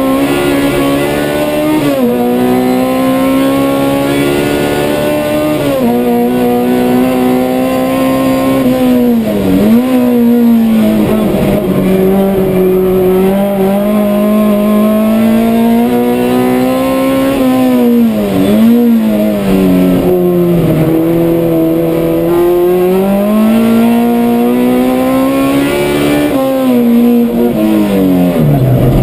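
Honda CRX's swapped non-VTEC B20 four-cylinder engine at full throttle, heard from inside the cabin on a flying lap. Its pitch climbs through the gears and drops sharply at upshifts about two and six seconds in. It dips and recovers as the car brakes and downshifts around ten and eighteen seconds in, and again near the end.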